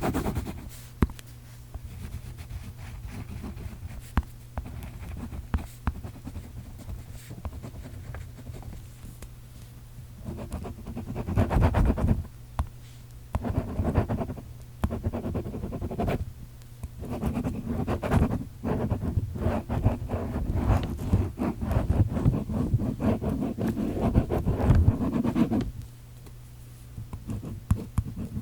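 Handwriting: a writing tool scratching across a surface. It starts as light scratching, then comes in louder bursts of strokes from about ten seconds in, runs almost without a break from about seventeen seconds and stops near the end. A steady low hum lies underneath.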